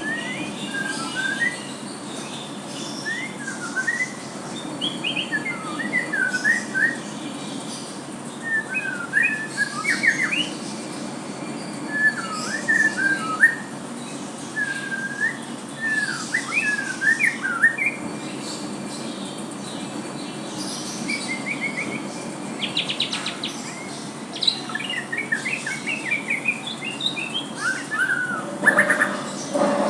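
White-rumped shama (murai batu) singing: short, varied whistled phrases one after another, with a fast rattling trill about two-thirds of the way through. The song sits over a steady low background hum.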